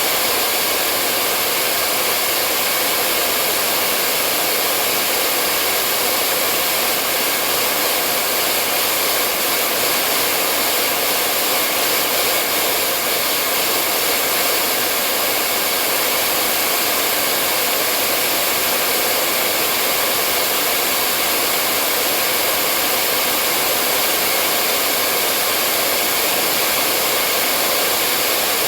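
Hair dryer blowing continuously, a steady airy rush with a faint motor hum and no change in speed.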